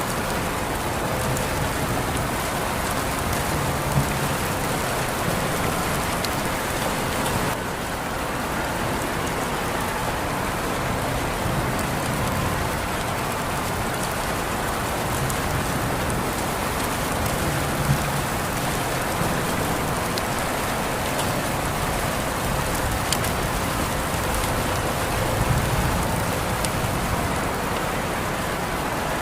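Steady rain falling on a surface, with a dense continuous patter and a few louder single drops standing out.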